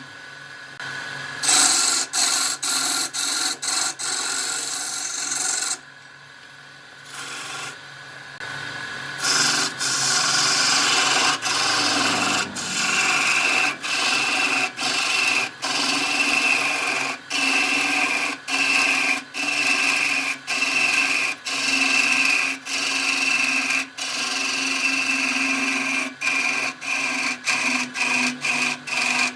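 Wood lathe running with a tool rubbing and scraping against the spinning wood, in short stretches broken by brief gaps. It goes quieter for a few seconds, then a steady high tone joins in about twelve seconds in.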